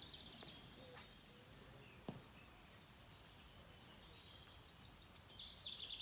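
Faint songbird singing over quiet outdoor background noise: a few high chirps at first, then a fast run of repeated high notes building up in the second half. A single short click about two seconds in.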